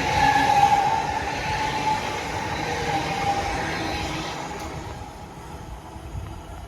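Class 345 electric multiple unit running fast on the track, with a rumble of wheels on rail and a steady electric whine. It is loudest about half a second in, then fades gradually as the train pulls away.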